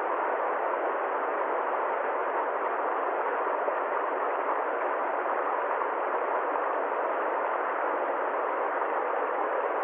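Steady, even noise with no change at all, sharply cut off below about 200 Hz and above about 4 kHz.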